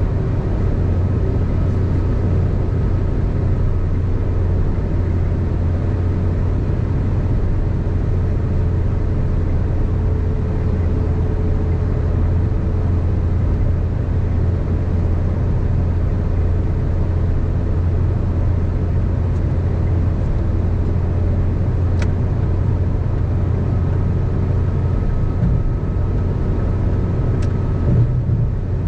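Car driving at steady freeway speed: constant tyre and road noise with a low drone, and a brief low bump near the end.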